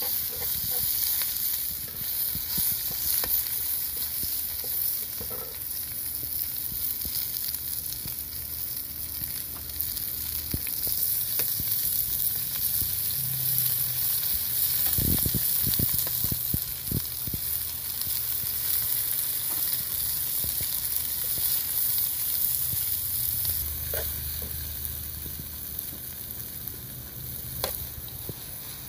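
Vegetables sizzling as they stir-fry in a hot wok, with a metal ladle stirring and scraping against the pan. A few sharp clinks of the ladle on the pan about halfway through and again near the end.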